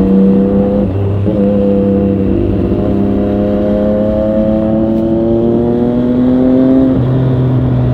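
Triumph Street Triple 765RS's inline three-cylinder engine pulling under throttle on a ride. The note breaks briefly about a second in, then the revs climb slowly for several seconds and drop to a lower note near the end, like a gear change.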